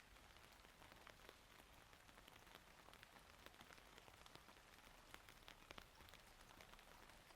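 Faint rain: a soft steady hiss with many separate drops landing close by as small ticks.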